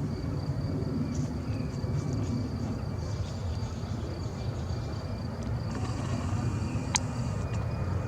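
Steady low rumble of distant aircraft engines, with a faint steady high tone above it and one sharp click about 7 seconds in.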